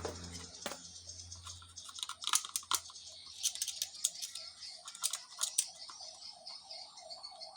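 A machine's low, steady hum dies away in the first second or two, then scattered sharp clicks and taps, irregular and loudest in the middle. A faint warbling tone comes in during the second half.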